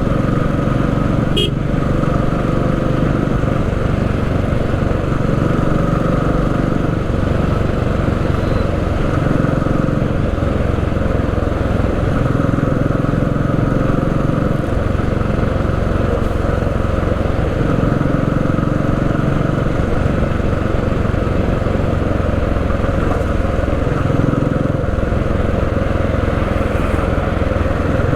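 Motorcycle engine running steadily at low revs in stalled traffic, with a short click about a second and a half in.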